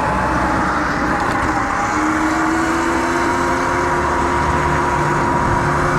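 Surron Light Bee electric dirt bike under way: a steady electric-motor whine that rises gently in pitch from about two seconds in as the bike speeds up, over a continuous rush of wind and road noise.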